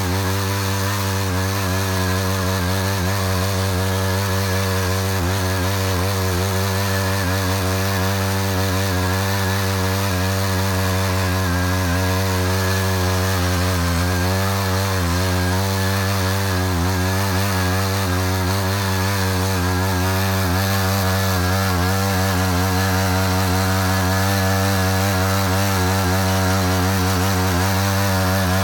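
Engine of a Matsuda walk-behind cultivator running steadily at an even note while it digs a furrow, the pitch wavering slightly about halfway through.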